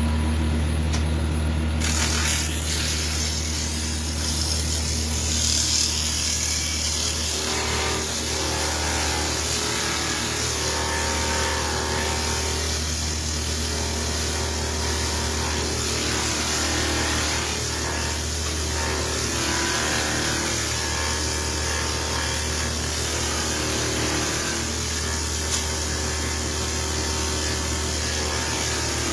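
Wood lathe running steadily, with a hand tool cutting the spinning soft-wood flute blank, a rough scraping noise that waxes and wanes over the motor hum.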